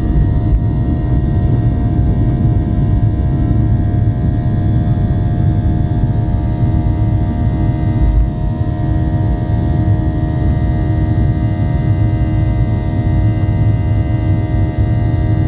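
Boeing 737-800's CFM56-7B jet engines at high thrust, heard from inside the passenger cabin: a steady, loud rumble with a layer of steady droning tones from the engine fans.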